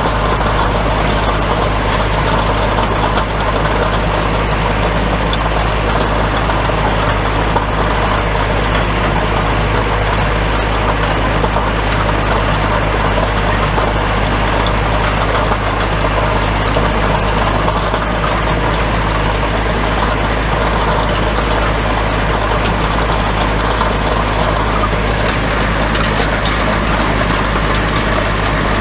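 Small farm tractor's engine running steadily at about 1600 rpm while pulling a hay rake, heard from the operator's seat.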